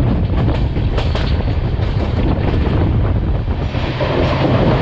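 Passenger train running, heard from an open coach doorway: a steady rumble of LHB coach wheels on the rails with irregular clicking and clatter. About four seconds in, as the coach runs close alongside a rock cutting, the noise grows fuller.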